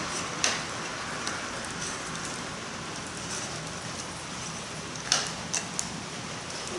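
Steady hiss of rain falling, with four sharp pops from the wood fire: one about half a second in and three close together near the end.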